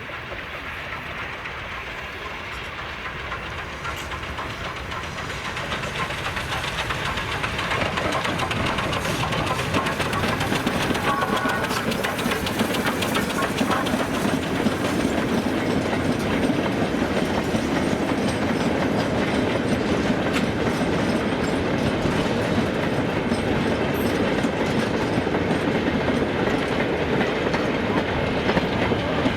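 Train drawing closer, growing louder over the first several seconds, then running past steadily with its wheels clicking over the rail joints.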